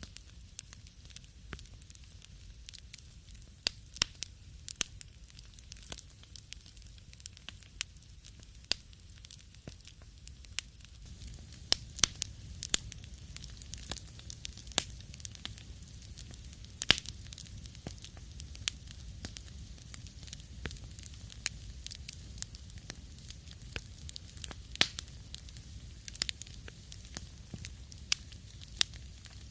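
Wood fire crackling in a fireplace, with irregular sharp pops and snaps over a faint hiss. It grows a little louder and fuller about a third of the way in.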